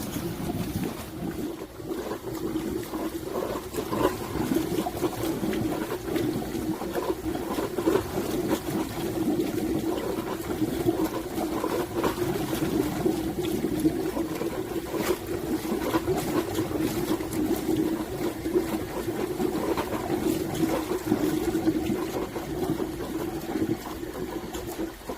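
Water running through a heating system's pipes during pipe flushing, over a steady low hum, with frequent small clicks and knocks.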